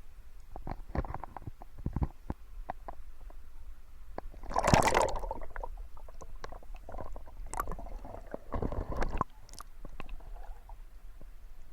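Barefoot footsteps sloshing through a shallow stream, with scattered taps and clicks and a louder splash about four and a half seconds in. A low rumble runs underneath.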